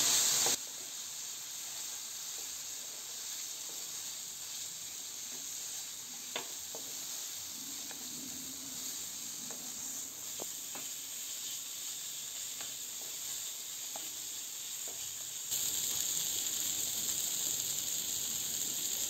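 Spice paste of onion, ginger and ground spices sizzling in oil in a non-stick frying pan as the masala is fried down, a steady hiss. A wooden spatula taps and scrapes the pan a few times while stirring, and the sizzle grows louder near the end.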